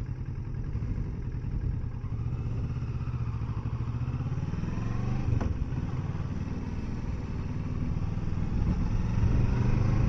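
Kawasaki Versys 650's parallel-twin engine running under way, its pitch rising as it accelerates about three to five seconds in, with a short click about five and a half seconds in.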